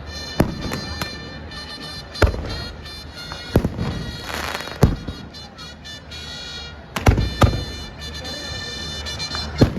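Fireworks going off: about seven sharp bangs at uneven gaps, two close together about seven seconds in, with a hissing burst about four seconds in.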